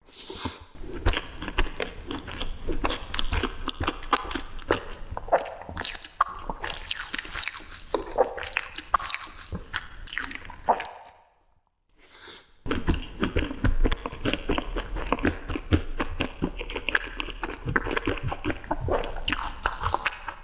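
Close-miked mukbang eating sounds: a person biting and chewing sweets, a dense run of wet smacks and sharp clicks, broken by a brief silence about eleven seconds in before the chewing starts again.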